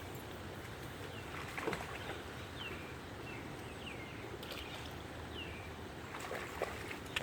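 Outdoor ambience: a steady low rumble, with several short, high, falling chirps from a small bird between about one and five seconds in, and a few brief soft knocks or splashes.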